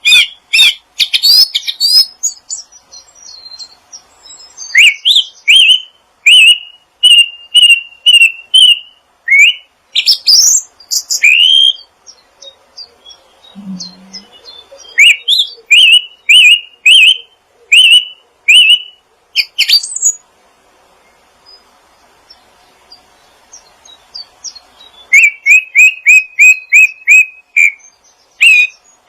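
Songbird calling in quick runs of short, sharp chirps that sweep upward, several a second, with pauses of a few seconds between the runs.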